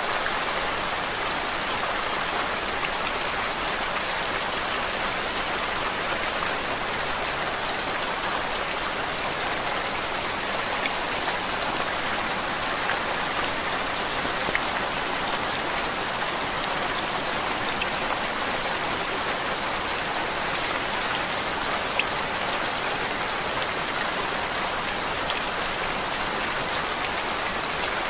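Steady rain falling on a surface: an even hiss flecked with many tiny drop ticks, unchanging throughout.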